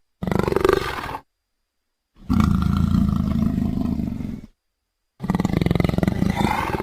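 Sri Lankan leopard calls: three harsh, pulsing vocalizations, the middle one the longest, each cut off abruptly into silence.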